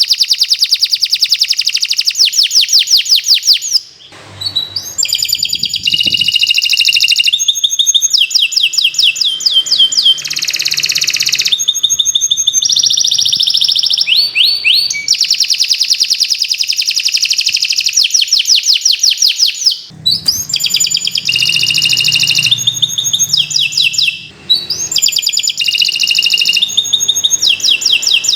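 Canary singing a long, continuous song of fast trills and rapid runs of repeated notes, with brief breaks about four, twenty and twenty-four seconds in.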